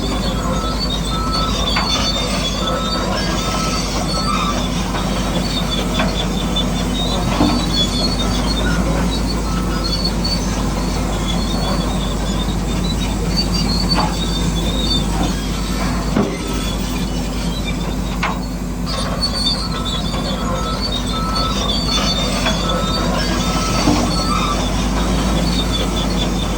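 Radio-controlled model bulldozer running steadily: its electric drive and gears whine, and the tracks squeal in high, intermittent tones. Now and then there is a short click or knock.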